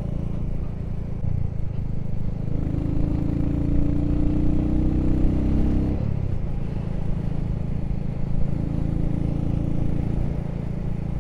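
Motorcycle engine pulling under way, its pitch climbing for a few seconds and then dropping at a gear change about six seconds in before running steadily, over wind and road noise.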